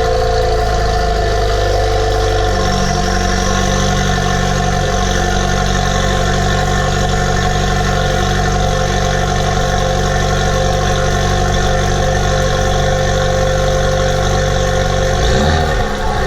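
Chevrolet Camaro 2.0-litre turbocharged four-cylinder (LTG) idling steadily just after a cold start, breathing through a catless downpipe and the stock exhaust. The idle briefly wavers near the end.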